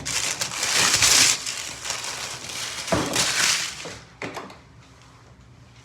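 Rustling, crumpling handling noise in two bursts, the first lasting about a second and a half and the second about three seconds in, followed by a few light clicks.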